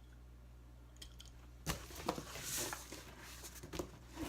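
Large cardboard shipping box being handled and opened: a few sharp knocks and clicks and a short scraping rustle of cardboard.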